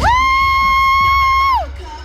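One long, high-pitched yell: it swoops up, holds a steady note for about a second and a half, then falls off.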